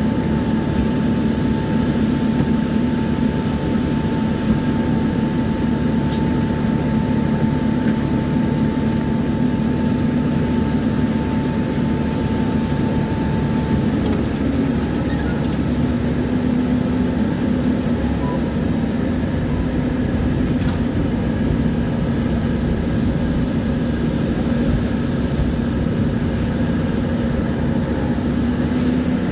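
Tram running along the track: a continuous rumble of wheels on rails with a steady hum from the traction equipment. A higher steady tone stops about halfway through.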